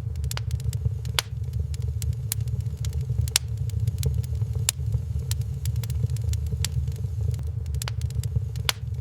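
Wood fire crackling in a fireplace, with irregular sharp pops and snaps, several a second, over a steady low rumble.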